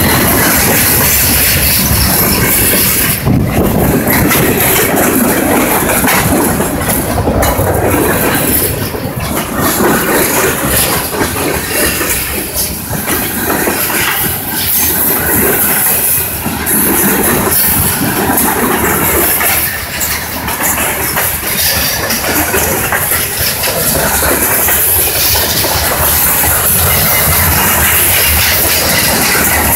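Freight cars of a long freight train rolling past close by: a steady, loud rumble of steel wheels on rail, with clicking as the wheels pass over rail joints.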